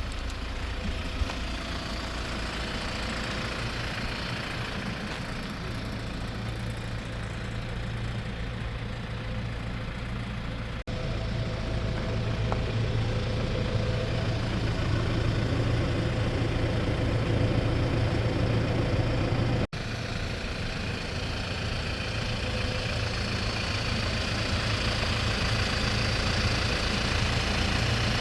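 Hyundai Porter II truck's 2.5-litre diesel engine idling steadily. The sound breaks off abruptly about a third of the way in and again about two-thirds in, then carries on, louder after the first break.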